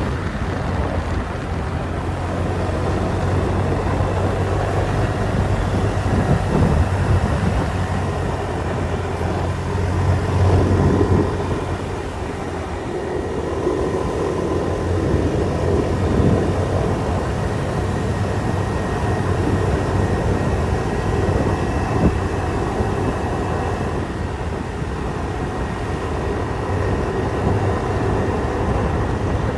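Motorbike riding along a street: engine running steadily under wind and road noise. The engine's low hum eases off about twelve seconds in.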